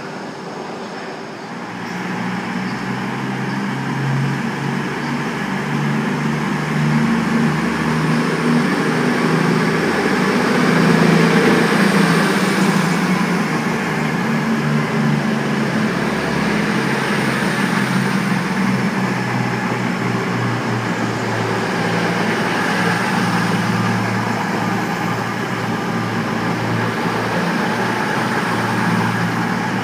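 Diesel multiple unit's engines running steadily at the platform: a low engine drone that grows louder about two seconds in and then holds.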